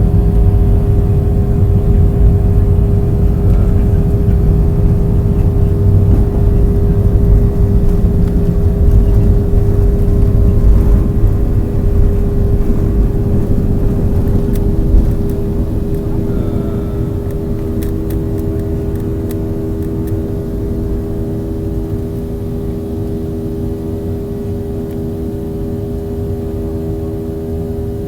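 Boeing 737-800's CFM56 jet engines heard from inside the cabin: a steady drone with several held tones over a heavy low rumble. The rumble eases off abruptly about halfway through while the engine tones carry on.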